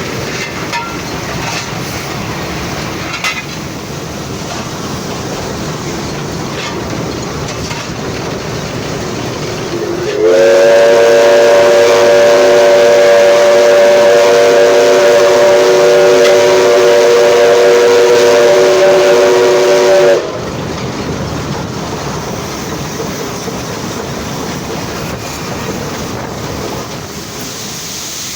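Steam locomotive 5917, a NSW 59 class 2-8-2, running under way, its noise filling the cab, then sounding one long whistle blast of several steady tones together for about ten seconds, starting about ten seconds in and cutting off sharply.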